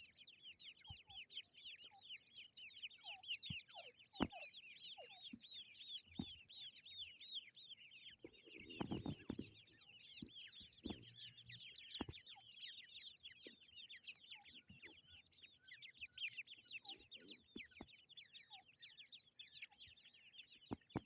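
Grey francolin chicks cheeping: many rapid, high-pitched peeps overlapping without a break. Scattered soft knocks, and a brief rustle about nine seconds in.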